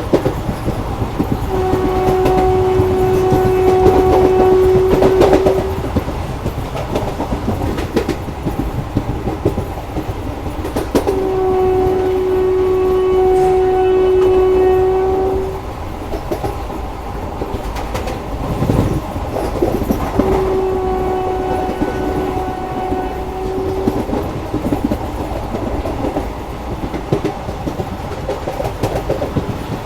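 A train's horn sounds three long, steady single-pitch blasts of about four seconds each, roughly nine seconds apart. Under the horn runs the continuous rumble and clickety-clack of the train moving over the track.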